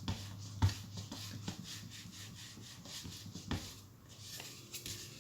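Hot clothes iron rubbed lightly back and forth over toner-printed paper on a copper-clad board, a faint quick scraping rub of about four strokes a second with a few light knocks, easing off near the end. This is the toner-transfer step of making a printed circuit board.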